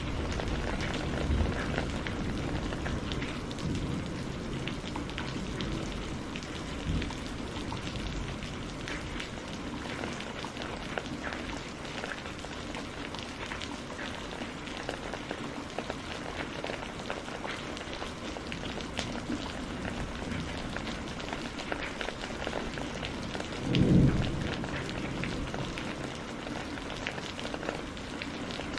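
Steady rain with many small crackling clicks and low thunder rumbles. About three-quarters of the way through comes one short, louder low thump.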